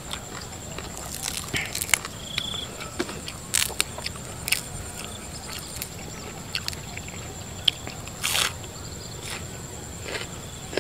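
A man chewing and smacking his lips over spicy raw shrimp salad with fresh greens: scattered wet mouth clicks, with a few short sharp slurps, the loudest about three and a half and eight seconds in.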